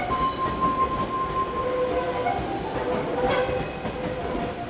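E7 series Shinkansen standing at a station platform, its onboard equipment giving a steady hum and blowing noise. A clear steady tone sounds for about the first second and a half, with fainter tones coming and going after it.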